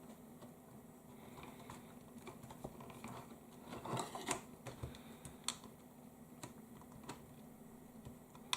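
Faint, scattered small clicks and taps of fingers working the flat ribbon connector and plastic housing of an opened TomTom Go 500 navigation device, with a small cluster a little before the middle.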